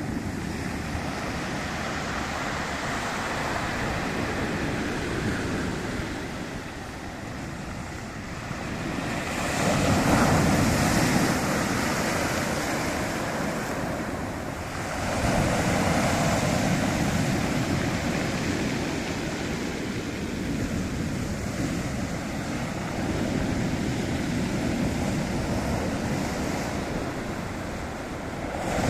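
Sea surf: waves breaking and washing up the shore in a continuous rush that swells and ebbs, loudest with surges about ten and fifteen seconds in.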